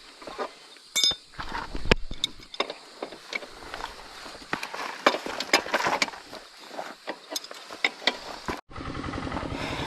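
Irregular clicks, taps and knocks of hand tools working on a motorbike wheel and inner tube during a roadside puncture repair. Near the end it cuts to a small motorcycle engine idling steadily.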